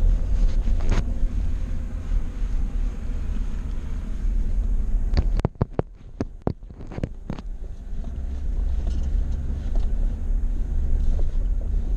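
Steady low rumble of a vehicle driving on a rough dirt road, heard from inside the cab. About five seconds in, the rumble briefly drops away and a quick run of sharp knocks sounds before the driving noise returns.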